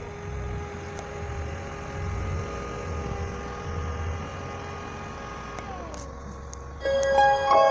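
A car engine running steadily with a low rumble and a held whine, its pitch dropping as it slows about six seconds in. Music comes in near the end.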